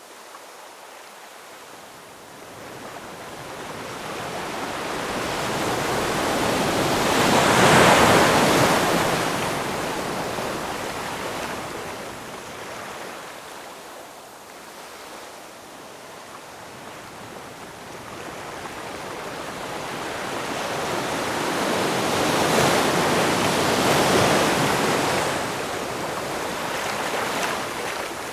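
Ocean surf: two waves swell up and break, loudest about 8 and 24 seconds in, with a softer wash of water between them.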